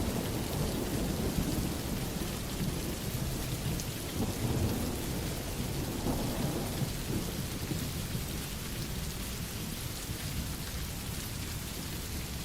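Steady rain with a low rumble of thunder that fades out about halfway through.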